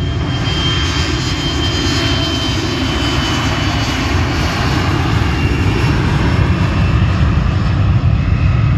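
Jet airliner's engines, a loud steady roar that grows louder through the clip, with a high thin whine that slowly falls in pitch.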